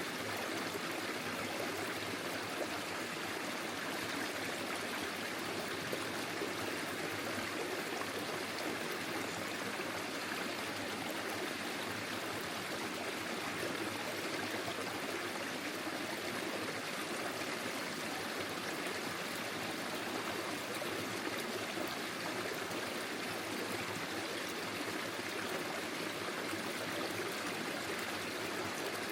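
Forest stream flowing steadily, a constant even rush of water with light trickling.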